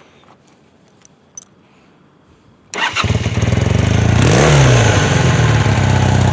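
1981 Honda CM400 parallel-twin engine breathing through Harley-Davidson 883 mufflers, starting up about three seconds in after a few faint clicks. It is given one brief blip of the throttle, then settles into a steady idle.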